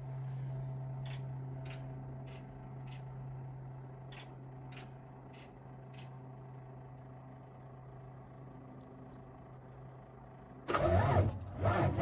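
A steady low hum with a few faint clicks, then about eleven seconds in the 2020 Kenworth T800's Cummins X15 inline-six diesel cranks and fires on a cold start and runs loudly.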